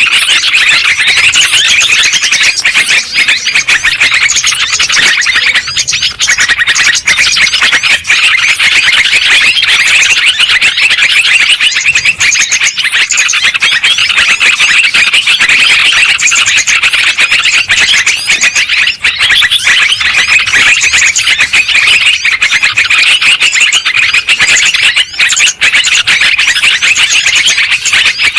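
Yellow-vented bulbuls (terucukan) calling noisily, many chattering calls overlapping into a dense, unbroken din.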